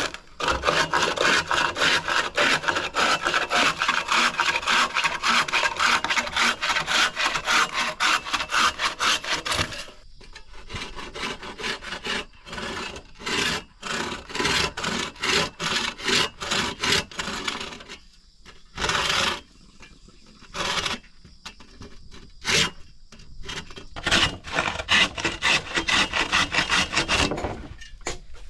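Handsaw cutting wood in fast, steady back-and-forth strokes. It stops about a third of the way in, gives way to scattered single strokes with pauses, then settles into a steady run of strokes again near the end.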